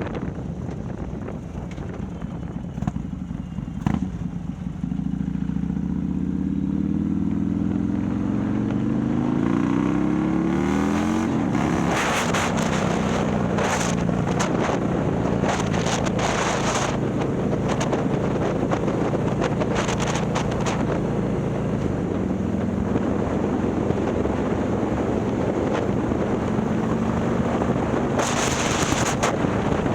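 Harley-Davidson Milwaukee-Eight V-twin, bored out to 130ci and running through a ThunderHeader exhaust, accelerating hard: its pitch climbs steadily from about five seconds in to about eleven seconds, then drops at a gear change. After that it settles into a steady cruise under gusts of wind on the microphone.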